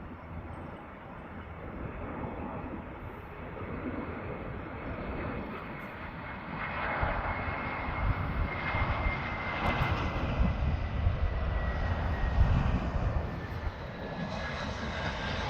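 Airbus A320 jet engines on landing: a steady rumble that grows louder, with a thin whine that drops slightly in pitch as the airliner passes.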